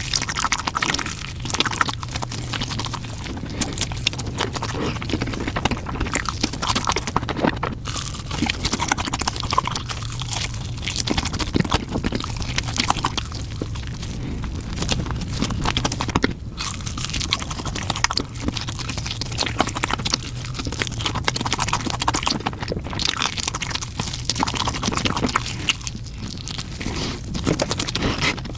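Close-miked chewing and biting on a spicy chicken leg: a dense run of small crackling clicks with a few brief pauses, over a steady low hum.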